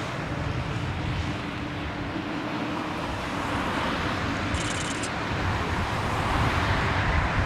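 D51 200 steam locomotive working, a steady rushing exhaust noise over a low rumble, a sound the owner likens to a jet plane.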